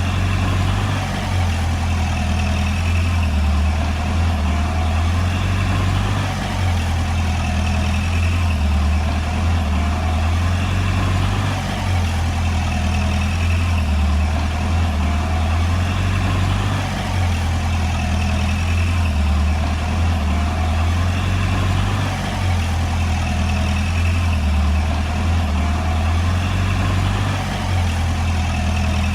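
Komatsu D20P bulldozer's diesel engine running steadily with a deep drone, easing slightly about every five seconds.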